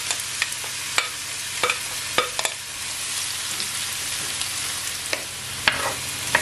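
Mushrooms and chopped vegetables sizzling in hot oil in a nonstick frying pan on medium-high heat, a steady hiss. A wooden spoon stirring them knocks against the pan at irregular moments.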